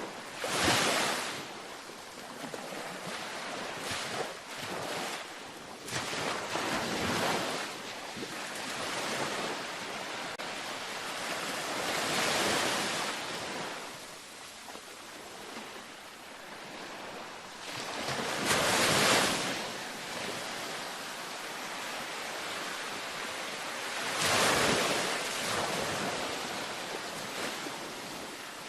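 Gentle ocean waves breaking on a beach: a steady wash of surf with a wave surging in and fading every few seconds, the biggest about a second in, near the middle and toward the end.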